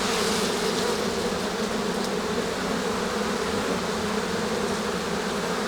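Honey bees humming from the open hive while the frames are out for inspection: a steady drone.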